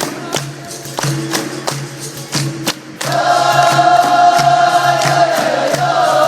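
Capoeira roda music: hand percussion beating a steady rhythm, joined about halfway through by a group singing the chorus together, after which it is louder.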